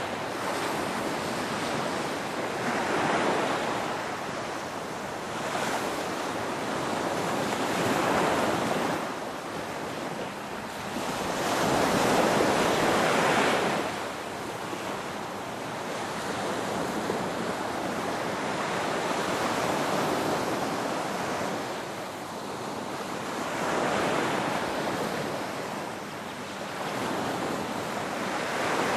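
Ocean waves breaking and washing in, a continuous rushing surf that swells and eases every few seconds.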